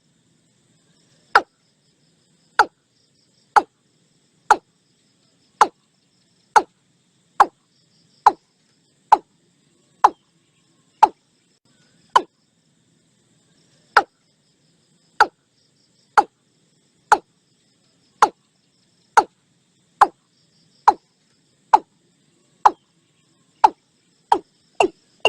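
Watercock calling: a series of short, abrupt notes about one a second, coming faster near the end. A faint insect or frog chorus sits underneath.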